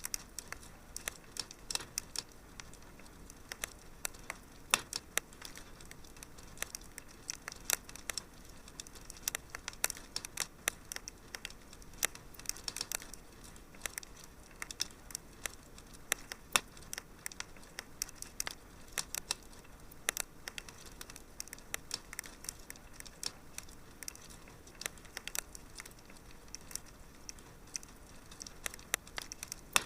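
Wood fire crackling in a fireplace: many irregular sharp pops and snaps, a few of them louder, over a faint steady hiss.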